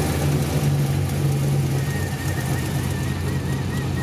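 Pontiac G8 GT's 6.0-litre V8, fitted with aftermarket headers, idling steadily.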